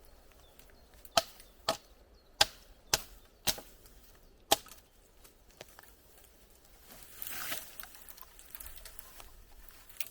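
Six sharp chopping strikes into wood, roughly half a second to a second apart, followed a few seconds later by a brief rustle.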